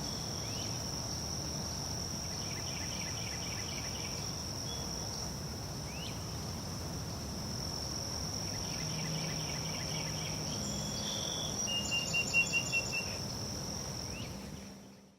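Crickets trilling steadily at a high pitch, joined a few times by short runs of quick chirping notes at a lower pitch; the sound fades out near the end.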